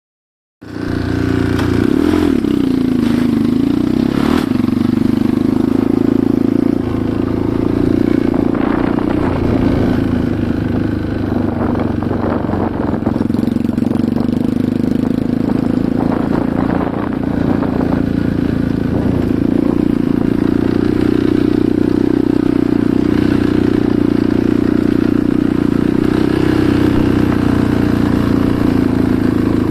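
Enduro motorcycle engine running steadily while riding, its note dipping and recovering a few seconds in, with occasional knocks and clatter from the rough track.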